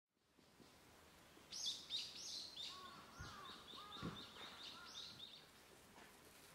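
Wild birds singing: a quick series of high, falling chirps starting about a second and a half in and dying away after five seconds, with lower rising-and-falling whistles from a second bird in the middle. Two faint low thuds come near the middle, over soft outdoor background noise.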